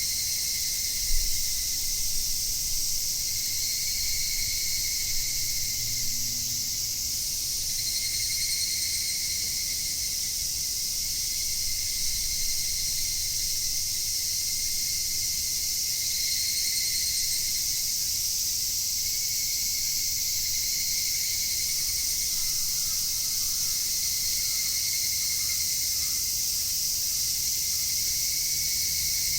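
Evening cicadas (higurashi) and other insects calling in a dense, steady chorus: a continuous high shrill, under which a lower call swells and fades about every four seconds.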